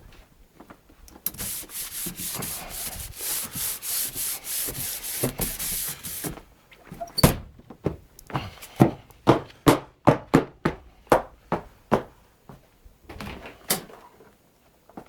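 Rapid, even scraping strokes for about five seconds, then a sharp knock and a run of separate scrapes about two a second.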